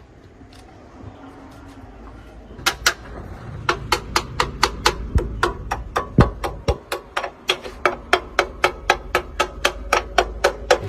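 A hammer striking metal with ringing blows: two a little before the three-second mark, then a steady run of about three to four blows a second.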